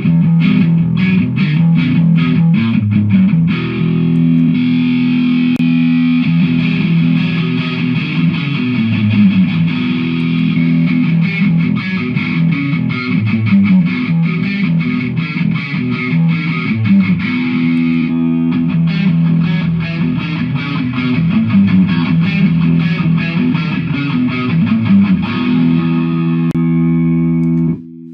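Electric guitar played with distortion through a Mooer GE150 multi-effects unit. It plays fast, chugging riffs at the start and again past the middle, with held chords in between.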